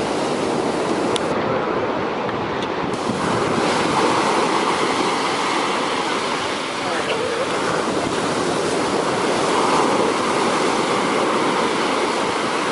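Heavy sea surf breaking and washing up the beach in a continuous rush that swells a little twice, with wind on the microphone.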